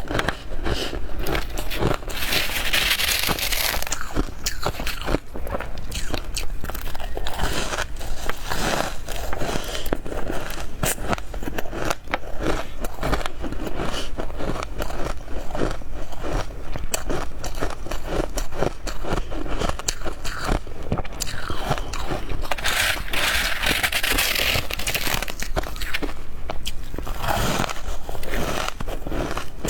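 Close-miked biting and crunching of soft, powdery freezer frost, a dense run of crisp crackling crunches. It grows louder and hissier twice: a couple of seconds in, and again about three-quarters of the way through.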